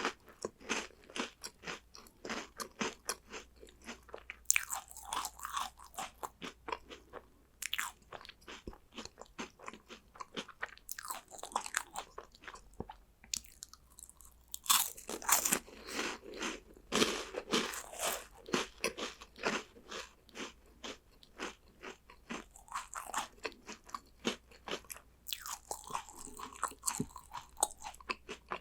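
Close-up crunching and chewing of crunchy chocolate snacks: a rapid, continuous run of crisp crunches with several louder bites along the way.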